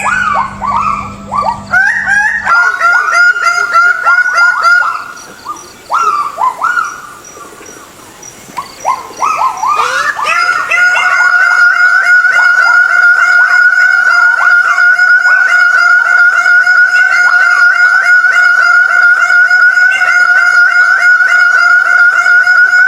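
Forest animal calls: a string of short falling calls. About ten seconds in, a long, rapidly pulsing call takes over and holds one pitch.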